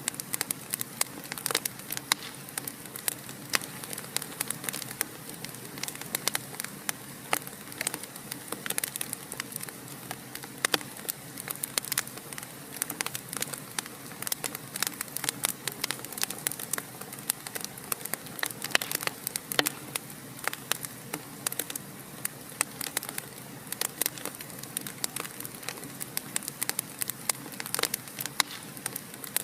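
Fireplace fire crackling: a steady soft hiss with many sharp pops and snaps, several a second.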